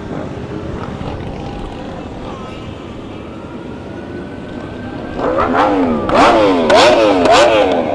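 Motor vehicles running past with a steady rumble; about five seconds in, an emergency vehicle's siren starts up in a fast yelp, its pitch rapidly rising and falling, and becomes the loudest sound.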